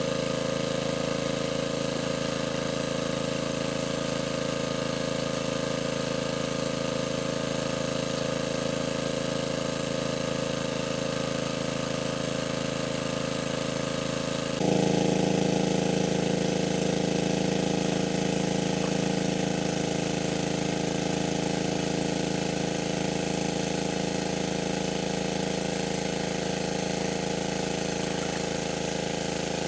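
A small engine running steadily at a constant speed. About halfway through, its tone shifts abruptly and becomes a little louder, then holds steady again.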